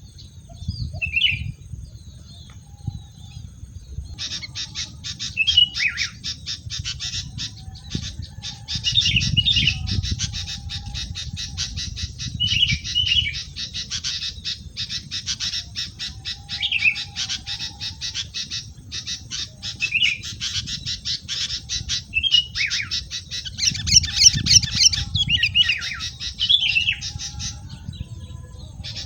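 Wild birds calling: short squawking notes repeated every few seconds over a fast, dry rattling chatter that starts about four seconds in.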